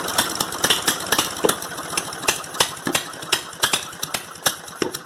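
20 hp opposed-twin mower engine spitting and sputtering with irregular pops as it is choked to kill it, because not everything is hooked up yet. It fades and stops at the end.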